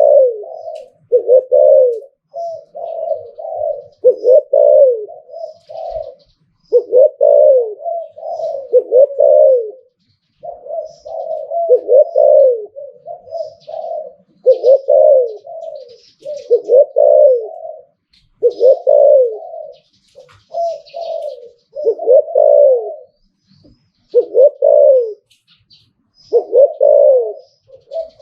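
Spotted dove cooing over and over, one phrase after another with short pauses between, in the cooing style Thai dove keepers call 'liew tan'. Faint high chirps from small birds are heard behind it.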